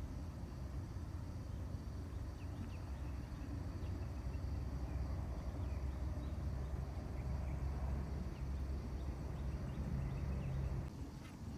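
Outdoor ambience: a steady low rumble, with faint short chirps scattered throughout and a steady high insect-like drone. The rumble eases about a second before the end.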